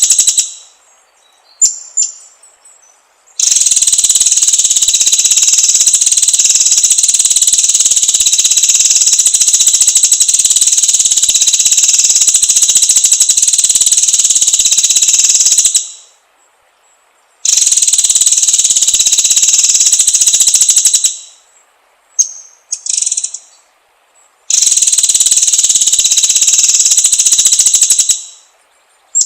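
Loud, steady, high-pitched insect drone, like a cicada, sounding in three long stretches that start and stop abruptly. Short bird chirps come in the gaps between them.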